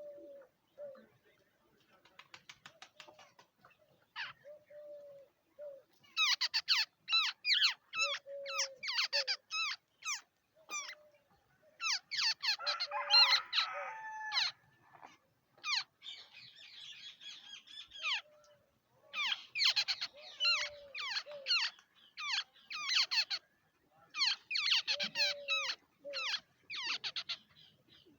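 Babblers calling: four bouts of rapid, harsh chattering notes, the first starting about six seconds in, with a short low note repeating between the bouts.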